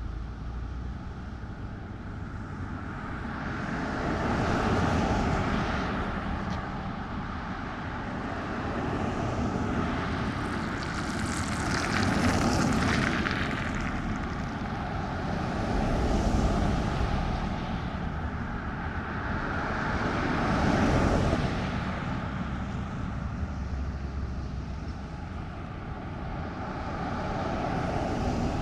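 Road traffic: motor vehicles passing one after another, each swelling and fading as tyre and engine noise, about every four seconds.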